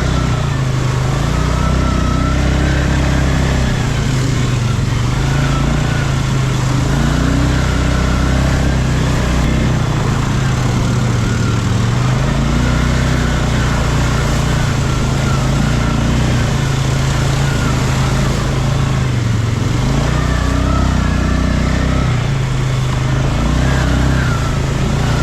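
ATV engine running while riding, its pitch rising and falling over and over as the throttle is worked.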